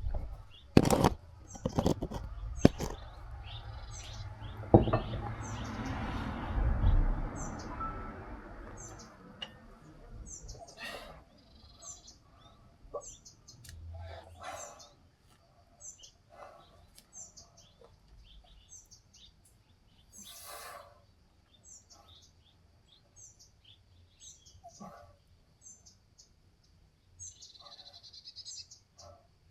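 A bird chirping over and over, one short high chirp about once a second. A few sharp knocks and some rustling come in the first several seconds.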